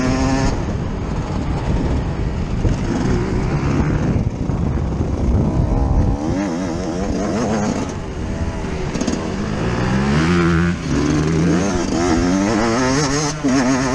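Yamaha YZ125 single-cylinder two-stroke motocross engine heard on board, revving hard with its pitch rising and dropping again and again as the rider opens and closes the throttle.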